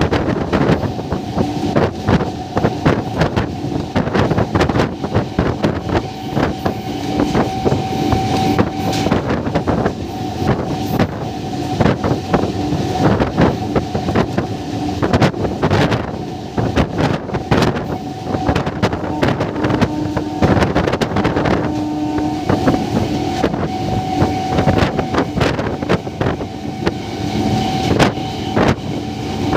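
MEMU electric train running at full speed, its wheels clattering and rattling over the rails with a steady whine underneath. Wind buffets the microphone held out of the window.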